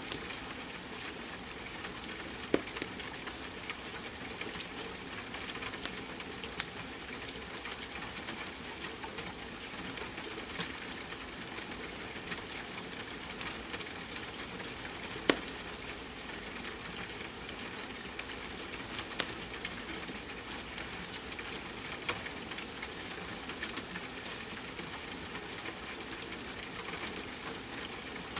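Steady hiss of rain with a wood fire crackling in a fireplace, sharp pops now and then, the loudest about two and a half and fifteen seconds in.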